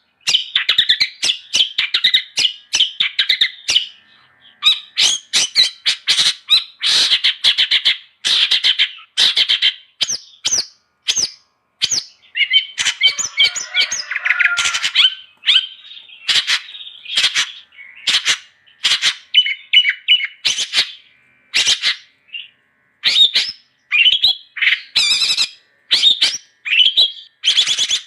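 Long-tailed shrike (cendet) in vigorous full song: fast runs of short, harsh chattering notes and chirps, broken by brief pauses.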